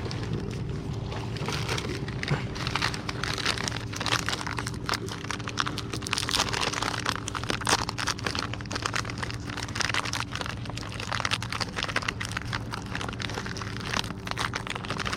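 Plastic pouch being opened and handled: dense rapid crinkling and crackling, over a steady low hum.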